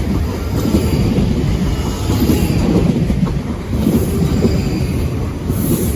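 A pair of South Western Railway Class 458 electric multiple units running past at close range: a loud, steady rumble of wheels on the rails.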